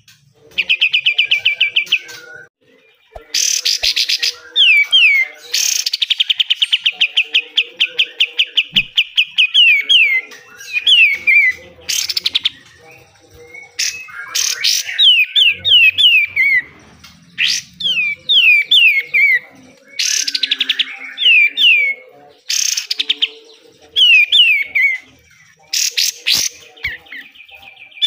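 A kapas tembak songbird singing loudly in repeated phrases. Long rapid trills of quickly repeated notes, the 'besetan' bursts, alternate with groups of three or four falling whistles, with short pauses between phrases.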